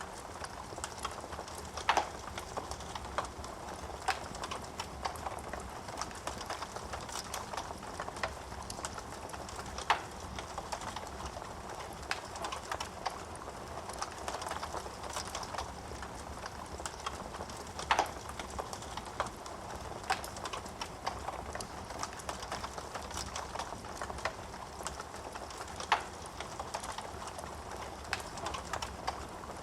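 Wood fire in a fireplace crackling, with a steady soft hiss of flame and many small snaps of burning wood. Four sharper pops stand out, evenly spaced about eight seconds apart.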